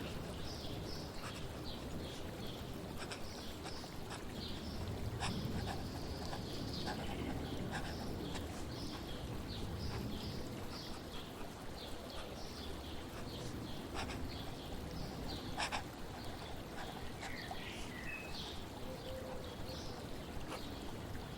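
Flowing water running steadily beneath many short bird chirps and trills, with a few faint sharp clicks.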